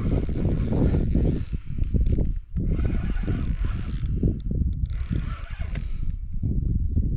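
Fishing reel being wound in three spells of about a second and a half each while playing a hooked carp, over loud rumbling handling noise from the rod and boat.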